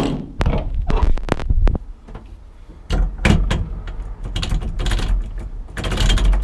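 An irregular series of sharp knocks and clicks over a low rumble, like parts being handled and fitted by hand in a car interior.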